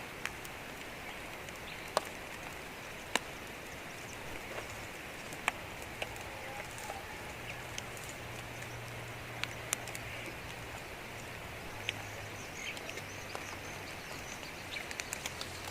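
Open-field ambience: a steady hiss with scattered sharp ticks. A low steady hum comes in about halfway, and faint bird chirps are heard near the end.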